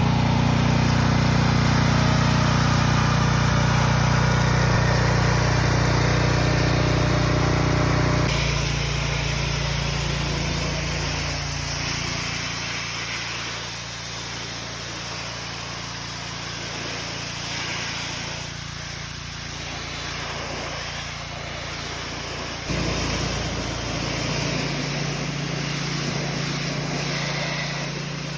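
Small gasoline engine of a pressure washer running steadily, with the hiss of the spray. The sound steps down abruptly about eight seconds in and steps back up a little past twenty-two seconds.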